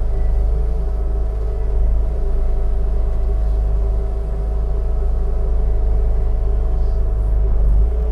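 An engine running steadily at constant speed: a deep rumble with a steady hum over it.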